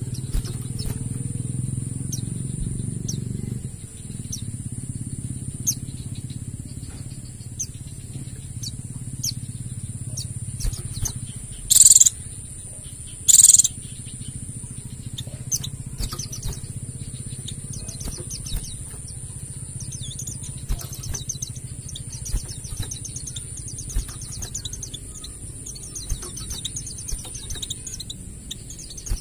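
White-eyes twittering: scattered short high chirps, two loud piercing calls near the middle, then a dense, rapid run of twittering in the last third. A steady high-pitched buzz and a low rumble run underneath.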